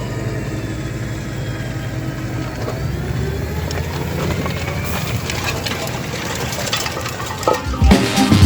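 Tractor diesel engine running steadily at low revs. Near the end, louder background music with a strong beat comes in.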